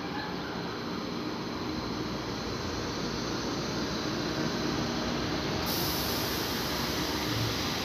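ICE T electric multiple unit rolling past at low speed: steady running noise of wheels and traction equipment with a low hum, growing slightly louder. A high hiss joins near the end.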